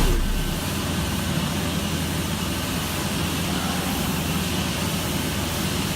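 Gas-fired heater in a truck-wash bay, its flame shooting through a vent and making a steady roar that sounds like a jet engine, with a low hum underneath.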